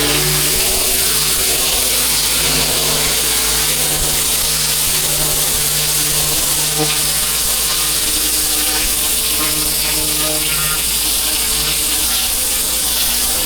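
Pressure washer running: a steady, loud hiss of the high-pressure water jet over a constant low motor and pump hum.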